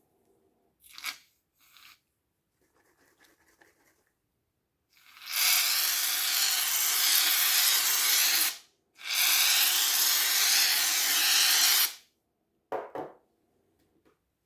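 Two long, steady hisses of about three seconds each, separated by a short break, like something being sprayed. A few small handling clicks and rustles come before and after them.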